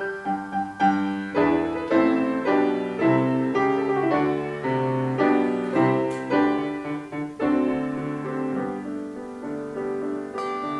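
Handbell trio playing a hymn arrangement: struck bell notes in a melody over chords, each note ringing on and fading.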